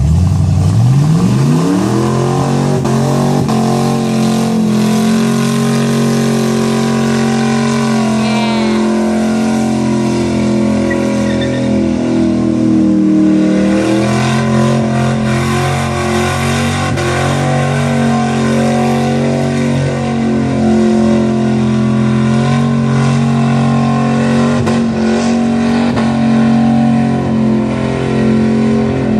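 5.0-litre V8 revving hard in a burnout: the engine climbs quickly to high revs in the first couple of seconds, then is held there loud and fairly steady, wavering a little, while the rear tyres spin and smoke.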